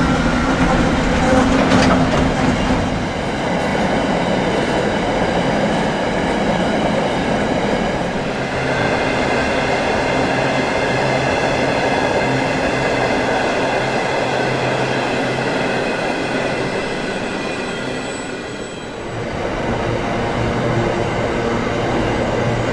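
Iron ore hopper wagons of a long freight train rolling past: a steady rumble and clatter of steel wheels on the rails, with high wheel squeal ringing over it through the middle. The sound dips briefly near the end, then the wagons rumble on.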